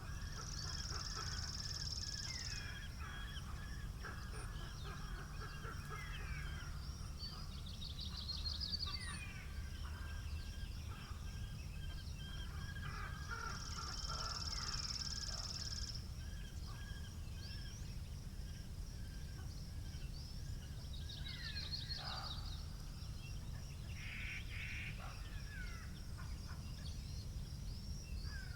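Small birds chirping and singing over a steady low rumble of wind. A high, buzzy trill comes in about a second in and again around the middle.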